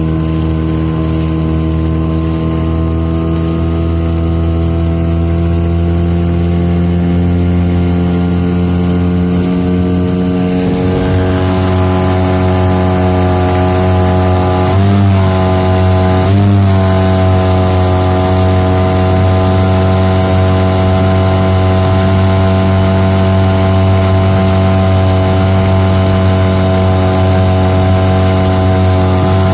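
Outboard motor pushing a boat along, its pitch rising slowly for about the first ten seconds and then holding steady, with two brief dips in pitch around the middle. A rushing noise of water and wind rises under the engine once it reaches speed.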